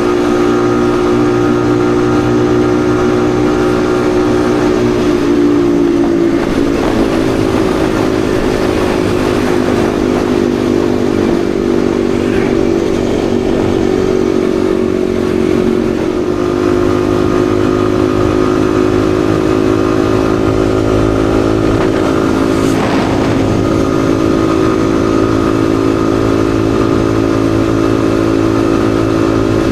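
Yamaha XSR155's single-cylinder engine running steadily under way, its pitch shifting a little twice with throttle or gear changes. About three-quarters of the way through there is a brief sharp sound.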